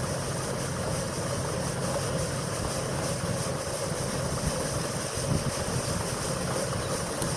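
John Deere combine harvester running steadily, a continuous heavy engine rumble mixed with the noise of the machinery.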